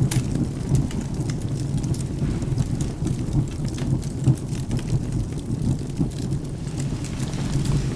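Rain and thunderstorm ambience: a steady low rumble under rain, with scattered sharp crackles from a wood fire.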